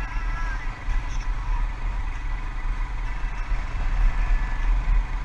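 Motor vehicle running with a steady, deep, uneven rumble.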